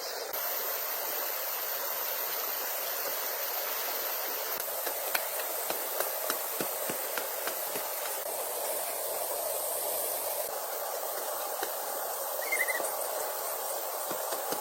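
Steady rain falling: an even hiss of water with scattered drops ticking through it, and one brief high chirp near the end.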